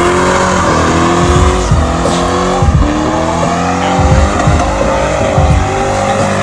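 Car tires squealing over a running engine.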